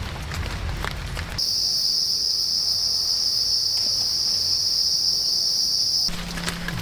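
A loud, steady, high-pitched insect drone that starts abruptly about a second and a half in and stops just as abruptly near the end. Before and after it there is light crackling and ticking.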